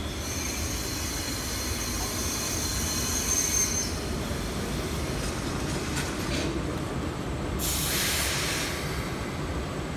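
ED75 electric locomotive and its train of Chiki 5500 rail-carrying flat cars braking to a stop. A high, steady brake squeal lasts about four seconds over a low rumble of the rolling train. About eight seconds in, as the train halts, there is a short burst of air hiss.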